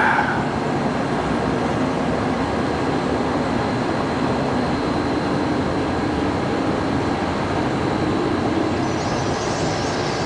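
Steady roar of road traffic, with faint high twittering of a flock of birds coming in near the end.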